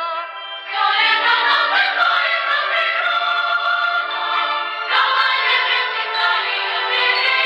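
A song with several voices singing together over instrumental backing, with new phrases coming in strongly about a second in and again about five seconds in.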